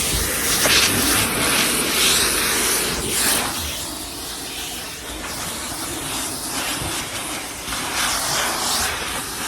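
Coin-operated car wash vacuum running, its hose rushing with air that surges and fades as the nozzle moves over surfaces. Its suction is weak: it barely sucks anything up.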